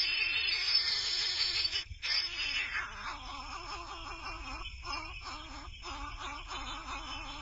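Baby birds making raspy, hissing begging calls for food, loudest in the first few seconds and then a little softer.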